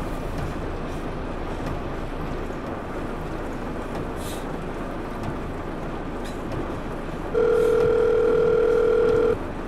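A telephone ringback tone, the call ringing at the far end, sounds once near the end for about two seconds, heard through the handset, then cuts off. A steady low background noise runs under it.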